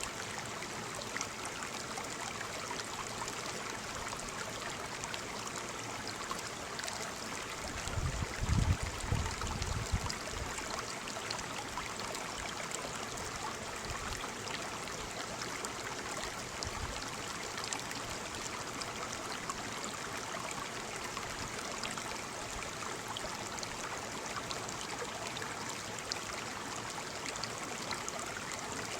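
Waterfall: falling water splashing and rushing in a steady, even wash. About a third of the way in, a brief low rumble rises under it for a couple of seconds.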